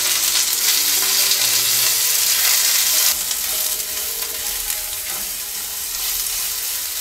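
Roselle calyces sizzling as they fry in hot mustard oil in a frying pan, stirred with a wooden spatula. The sizzle is loudest just after they go in and drops a little about three seconds in.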